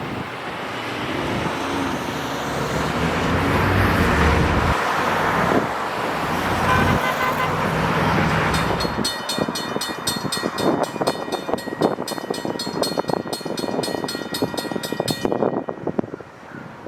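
NJ Transit commuter train passing at speed, its rushing noise building and then easing, with a brief horn blast about seven seconds in. Its wheels then click over the rail joints while a rapid ringing bell repeats about four times a second until it cuts off near the end.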